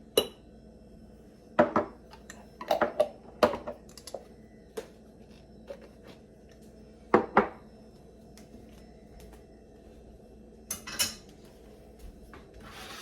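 Spoon and glass canning jars clinking and knocking on the counter: a scattered series of separate sharp clinks, several close together in the first few seconds, a pair about seven seconds in and more near the end.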